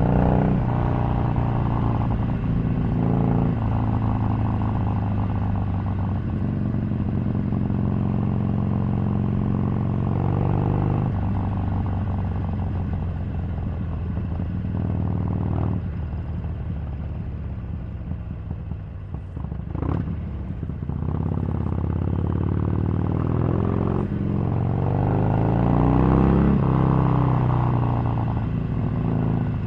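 Harley-Davidson 883's air-cooled V-twin engine under way, its pitch climbing and breaking off several times as it pulls through the gears. It eases off and runs quieter through the middle, with a short sharp knock about twenty seconds in, then revs up and gets louder again near the end.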